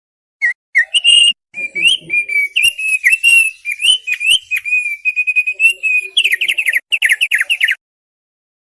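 Thick-billed heleia (opior paruh tebal) singing: a run of quick whistled chirps that turns into a fast series of downward-sliding notes, then stops abruptly.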